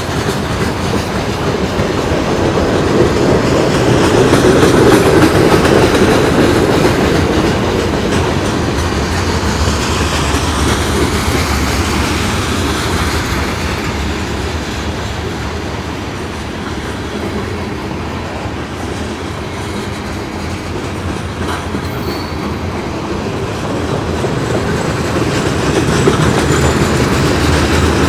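Freight train's boxcars and covered hoppers rolling past, a steady rumble of steel wheels on rail, loudest a few seconds in and again near the end.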